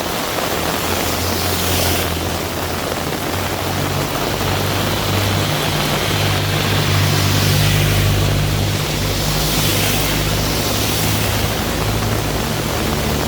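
Heavy rain falling steadily, with the low, steady hum of a motor vehicle's engine underneath that grows stronger a few seconds in.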